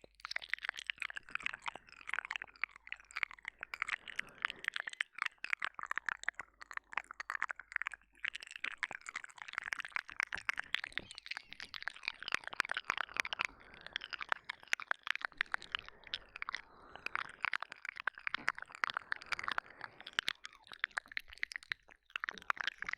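Close-up ASMR mouth sounds into a binaural microphone: rapid wet licking, smacking and sucking clicks, dense and continuous.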